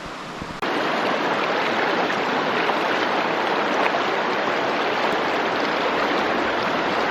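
Mountain stream running, a loud steady rush of water that starts abruptly about half a second in.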